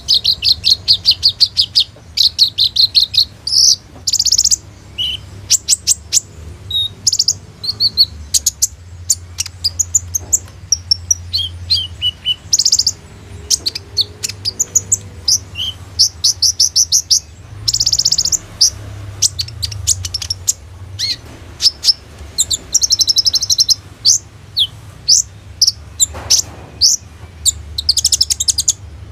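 Kolibri ninja (a sunbird) singing hard: bursts of fast, high rattling trills and sharp chirps, with short phrases copied from other birds mixed in.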